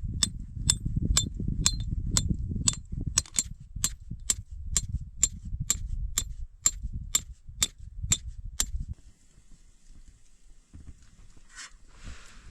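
A tent stake being hammered in: about twenty sharp metallic strikes, roughly two a second, over a low rumble, stopping about nine seconds in.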